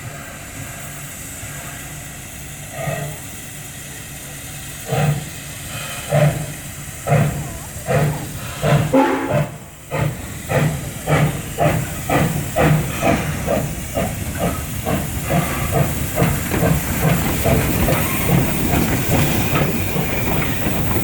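Steam locomotive pulling away from a standstill: steady hiss of steam, then exhaust chuffs that start slow, about one a second, and quicken to two or three a second as the train gathers speed.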